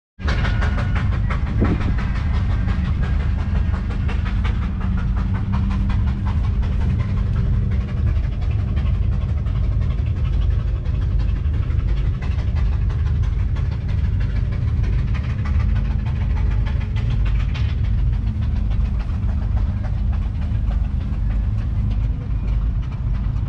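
1938 J.I. Case Model C tractor's 4.3-litre four-cylinder petrol engine running steadily, a continuous low rumble of rapid firing pulses.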